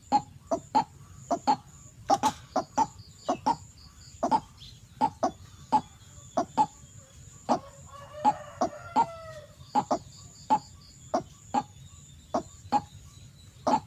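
White-breasted waterhen (ruak-ruak) calling: a long run of short, harsh notes about two a second, with a longer wavering call about eight seconds in.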